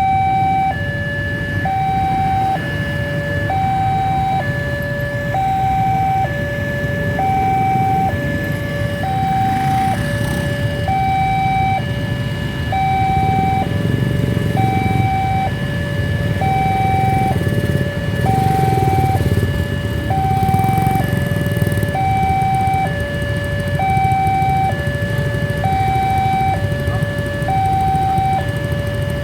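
Railway level-crossing warning signal sounding continuously, an electronic two-tone alarm alternating high and low about once a second, over a low rumble.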